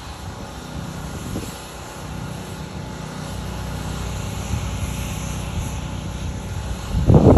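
A motor running steadily, with wind buffeting the microphone and a loud rumbling gust about seven seconds in.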